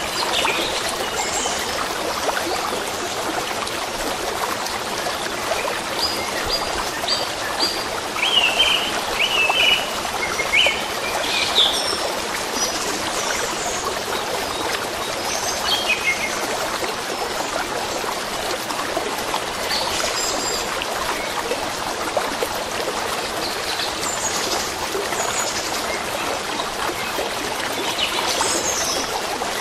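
A stream running and trickling steadily, with songbirds calling now and then over it in short chirps and whistles, the busiest stretch a little past a quarter of the way in and again near the end.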